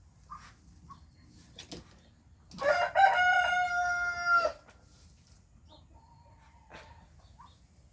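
A rooster crowing once, a single call of about two seconds that rises at the start and then holds one pitch before cutting off.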